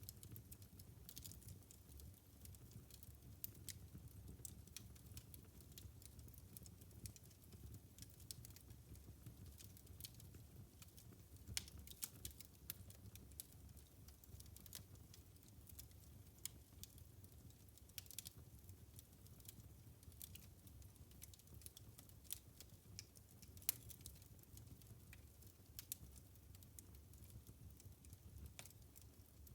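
Wood fire crackling in a fireplace: faint, irregular pops and snaps over a low, steady rumble, with a few louder pops, the sharpest about three-quarters of the way through.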